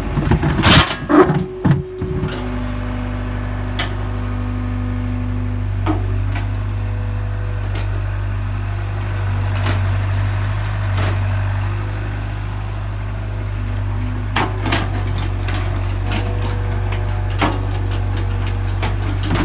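Excavator's diesel engine running steadily with a faint whine over it, and sharp knocks, several in the first two seconds and a few more about six and fifteen seconds in.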